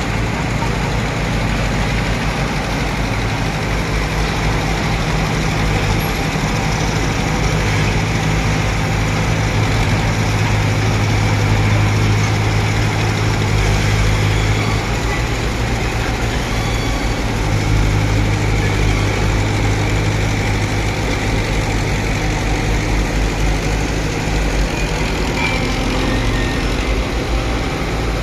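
Bulldozer's diesel engine running steadily, its low note swelling a little for a few seconds at a time.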